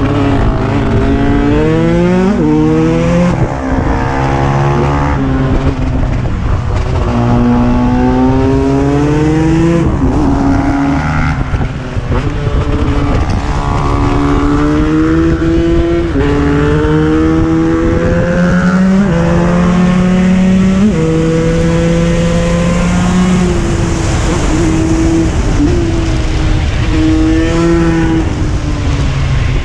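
KTM 125 EXC single-cylinder two-stroke engine running hard. The revs climb again and again and then drop back, with stretches held steady in between.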